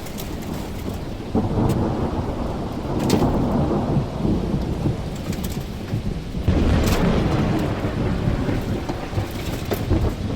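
Heavy rain falling during a thunderstorm, with thunder rumbling that swells suddenly about a second and a half in and again past the middle. Scattered sharp raindrop ticks sound through it.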